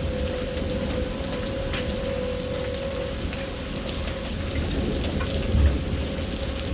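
Steady heavy rain falling and pattering on surfaces, with a low rumble of thunder swelling about five and a half seconds in. A faint steady tone is held underneath.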